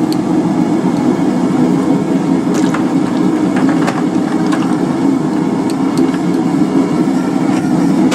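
Steady low roar of a blacksmith's forge running, with a few faint clicks.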